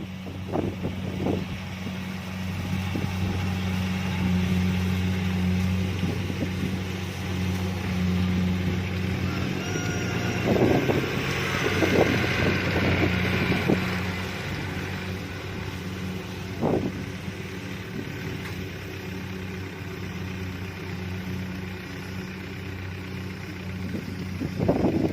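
Kubota DC-70 Plus combine harvester's diesel engine running steadily at a constant speed, with a few brief noises over it around the middle.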